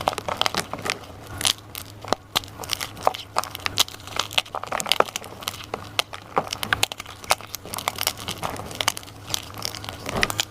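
Dyed gym chalk crunching and crumbling as it is crushed, a dense, irregular run of dry, crisp crunches and crackles.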